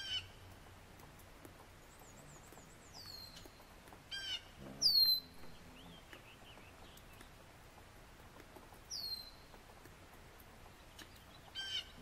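Several bird calls: sharp, high whistled notes that slide down in pitch, the loudest about five seconds in, and short bursts of quick chattering notes at the start, about four seconds in and near the end.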